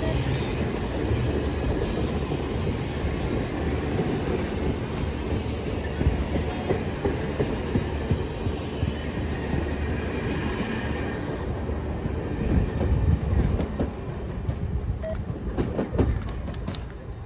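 A passing train rolling by: a steady rumble with wheels clicking over rail joints and some wheel squeal. The sound thins out in the last few seconds, leaving scattered sharp clicks.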